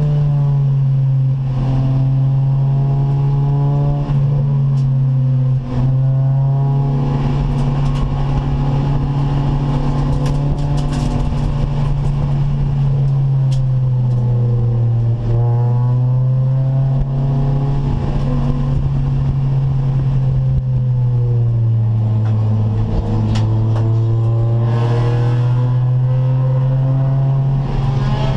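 Acura Integra race car's VTEC four-cylinder engine under hard load on track. Its pitch rises and falls with the revs, and there are a few brief dips where it shifts gear.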